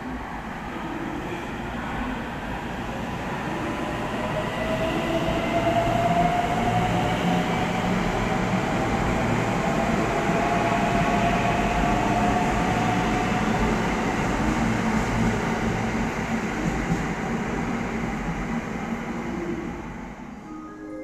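Electric train running along the platform, its rumble swelling over the first few seconds and fading near the end, with a motor whine that rises slowly in pitch as the train gathers speed.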